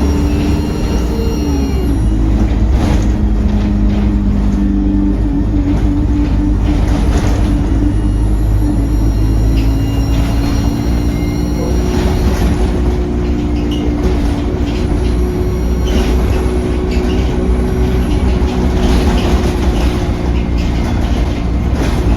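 Diesel service bus driving along, heard from on board: a steady engine and drivetrain drone with faint high whine and scattered rattles and knocks.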